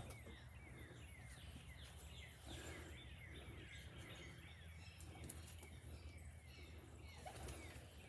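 Faint birds chirping in the background: a scattered series of short, falling chirps over a low steady hum.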